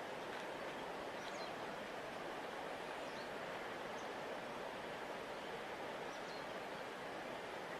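Steady rush of a large flowing river, an even wash of water noise. A few faint, short high chirps are scattered through it.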